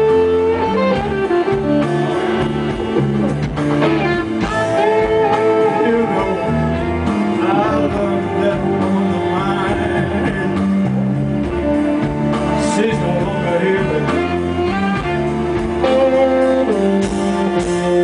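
Blues band playing live, a guitar bending notes over the band.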